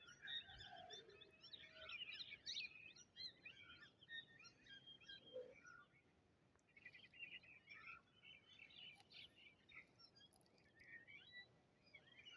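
Several small birds chirping and singing at once, a faint mix of short overlapping calls and trills with a brief lull about halfway through.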